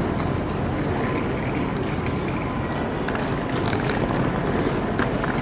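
Steady low rumble and noise of a vehicle in motion, with a few faint clicks and knocks.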